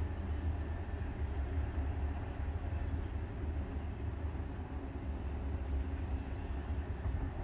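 Distant, steady low rumble of a Norfolk Southern oil train of tank cars rolling away down the line.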